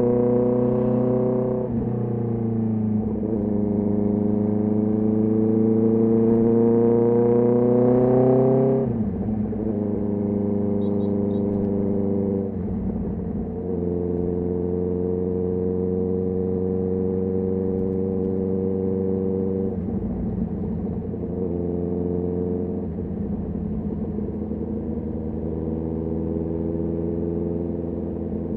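Honda CB650R inline-four engine and exhaust under way. The revs dip briefly, then climb steadily for several seconds and drop sharply about nine seconds in. After that the engine holds a steady note, with a few short dips in revs.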